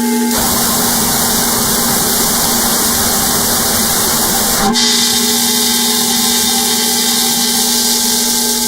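Eurorack modular synthesizer noise music: a steady drone of several stacked tones under a loud wash of hissing white noise. The noise comes in just after the start and thins to a bright high hiss about halfway through.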